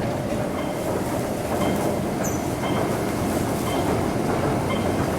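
MTR West Rail Line IKK electric train running, a steady rail rumble. A faint short beep repeats about once a second.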